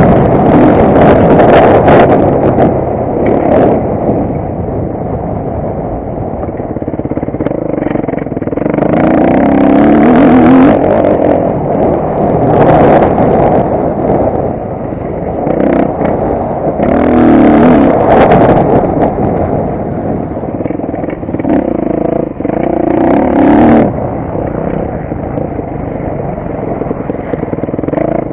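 Motocross bike engine revving hard and easing off again several times, with knocks and clatter mixed in.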